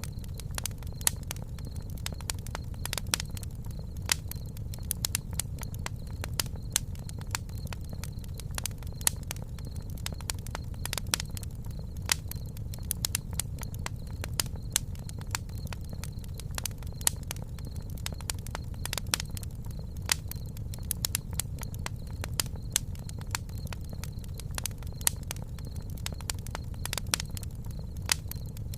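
Campfire crackling: frequent irregular sharp pops and snaps over a steady low rumble of the fire.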